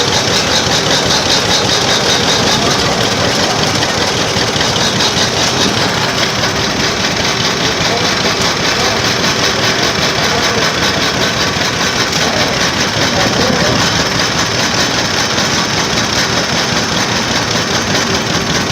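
Vintage engine running steadily and loudly.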